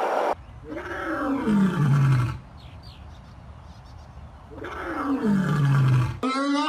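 A big cat roaring twice. Each call is a long, drawn-out moan that falls steadily in pitch, with a pause of about two seconds between them.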